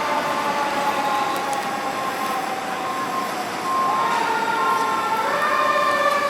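Siren of a 2012 KME fire engine sounding while responding: several held tones slowly falling in pitch, with a new tone sweeping up and holding about four seconds in and another rising about a second later.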